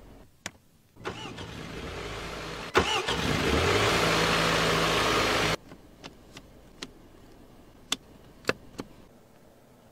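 Jaguar F-Pace engine being started: it cranks from about a second in, catches with a loud burst, and the revs rise before holding at a steady fast idle. The sound cuts off suddenly a little past halfway, leaving a few light clicks.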